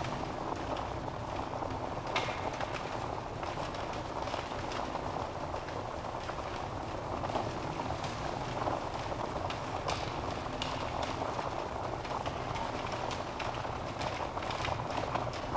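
Log fire burning with a steady rushing hiss and frequent sharp crackles and pops.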